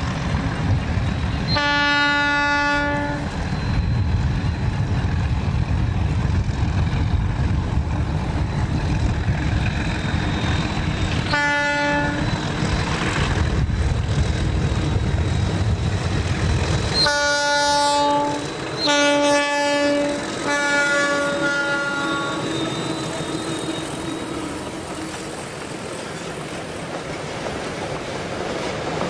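Diesel locomotive horn sounding four times as a freight train approaches: a long blast about two seconds in, a short one near the middle, then two more close together that fade out. The tank wagons then roll past close by, their wheels clattering over the rail joints, with a low rumble under the first part.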